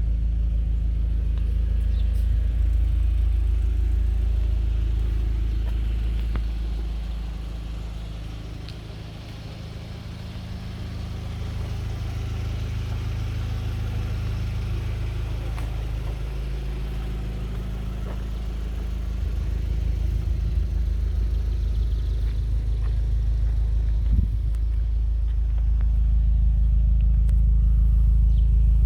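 Audi A4 1.8T's turbocharged four-cylinder engine idling steadily after a cold start, through a Milltek sport exhaust, as a low, even hum. It fades a little about a third of the way in, then grows again, and there is one short knock about three-quarters of the way through.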